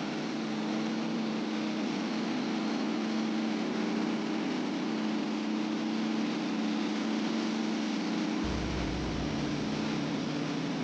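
Sawmill running with a steady mechanical drone, two even tones over a wide hiss of noise; the low rumble shifts about eight seconds in.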